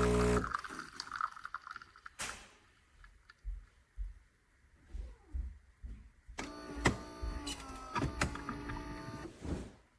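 A Philips fully automatic espresso machine's pump cuts off at the start, followed by faint clicks and knocks. About six seconds in, a small electric motor inside the machine whirs steadily for about three seconds, then stops.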